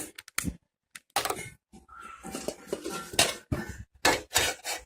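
Metal cookware clattering and knocking as a pan is handled and set down on a gas stove, a string of sharp clanks and scrapes.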